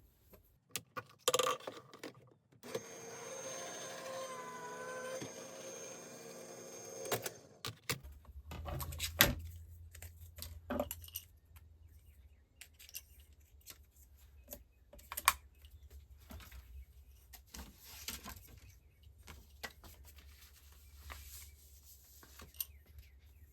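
Die-cutting machine running a die and paper through for about four and a half seconds with a steady tone, between clicks and clatter of metal dies and cutting plates being handled. A low hum comes in about eight seconds in.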